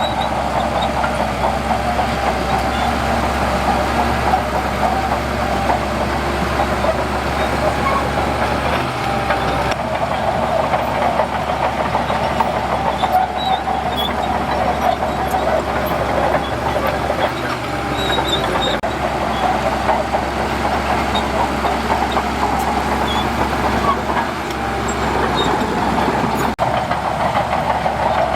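Diesel engine of heavy earthmoving machinery running steadily, its level holding even throughout.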